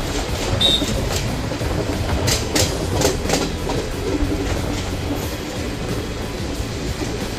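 Garib Rath Express passenger train running: a steady rumble with a short run of wheel clacks over rail joints about two to three seconds in.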